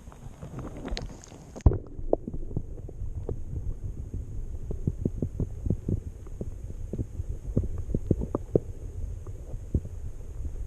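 A camera plunges into lake water with a splash about a second and a half in. After that the sound is muffled underwater noise, with many irregular low knocks and thumps from water and handling against the camera.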